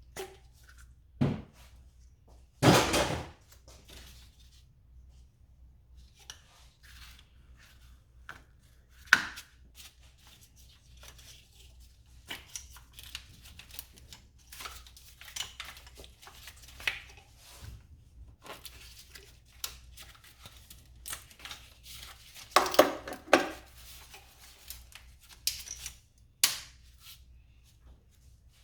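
Hand tools and engine parts being handled: scattered clicks, clanks and rustling, with sharper knocks about 3 seconds in, about 9 seconds in and a cluster a few seconds before the end.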